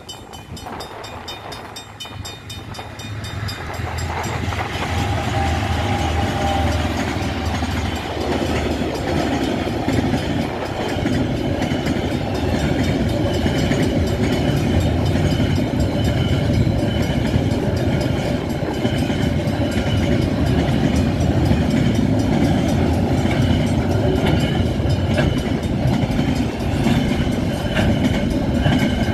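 A train passing over a level crossing. Its rumble and wheel noise build over the first few seconds and then run loud and steady. At the start, the crossing's warning bell rings in an even rhythm, which the train then drowns out.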